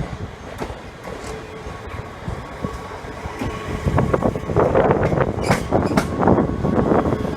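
Train moving slowly through the station, its wheels knocking over the rail joints and squealing faintly, getting louder from about four seconds in.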